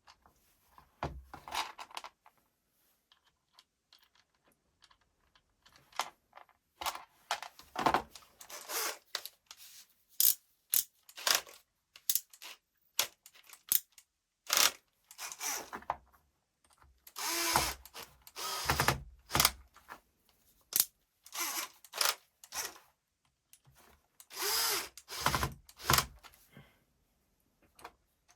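Makita cordless drill with a freshly repaired gearbox, run in many short bursts of a second or less, starting and stopping again and again.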